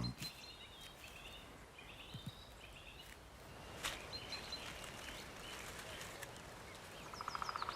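Faint forest ambience with small birds giving scattered short chirps and calls, and a single click about four seconds in. Near the end a rapid trill of fast, even pulses starts.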